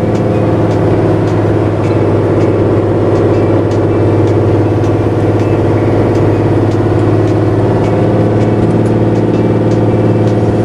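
Truck's exhaust brake holding the vehicle back on a descent, a steady loud engine drone that does not let up. It eases the load on the wheel brakes at the cost of more noise.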